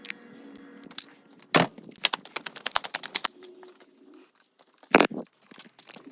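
A fast run of sharp clicks, about eight a second, with crackling around it and two louder knocks, one about a second and a half in and one near five seconds.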